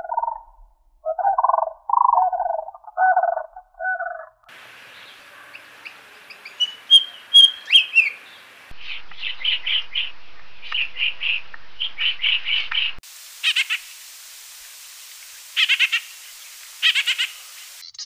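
Calls of several different birds, spliced one after another from separate recordings. First come a few lower-pitched calls, then high chirps with short rising and falling whistles, then quick runs of repeated high chirps, and finally a few spaced high calls.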